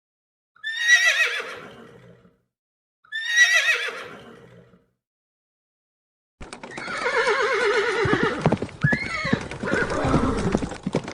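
Horse whinnying twice, each a quavering call falling in pitch. Then, from about six seconds in, a longer stretch of hooves clip-clopping quickly with more neighing over them.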